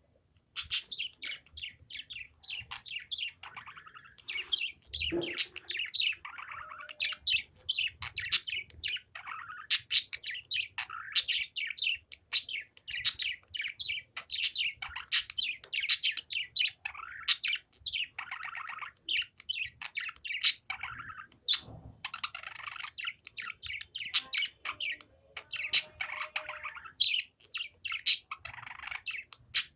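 Pet budgerigar chattering and warbling: a continuous run of quick, rapid chirps with sharp clicky notes.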